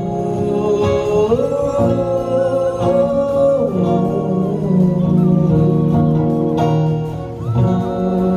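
Christian worship song: voices singing long held notes over instrumental accompaniment.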